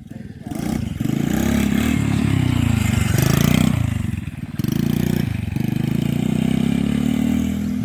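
Small carburetted engine of an RC quad bike revving up and down as it is driven, the throttle easing off briefly a few times, then running fairly steadily near the end.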